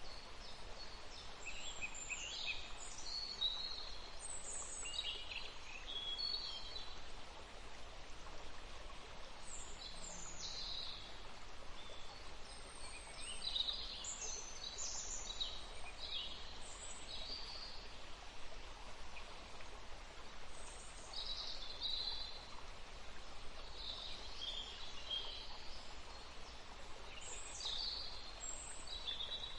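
Several songbirds chirping and trilling in short, high-pitched phrases that come in clusters every few seconds, over a steady background hiss.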